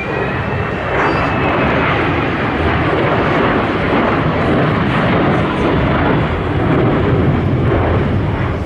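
Military aircraft engines, loud and steady, swelling about a second in and easing slightly near the end.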